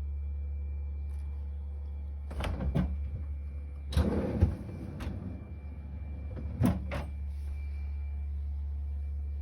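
Bosch 800 series refrigerator's doors and drawers being handled: a run of knocks and clunks, with a sliding, rattling stretch about four seconds in, over a steady low hum.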